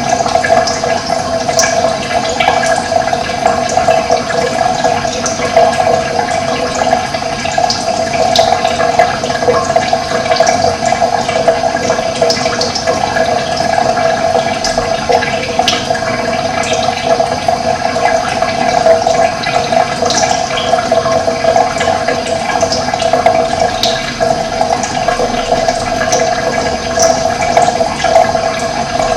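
Steady rushing of running water, with scattered short, high bird chirps over it.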